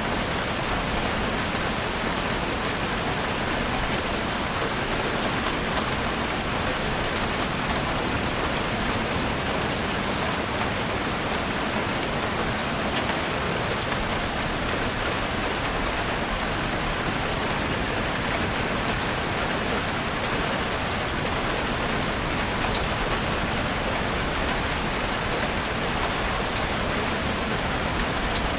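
Heavy rain falling steadily on a roof, a dense even hiss with faint scattered drop ticks.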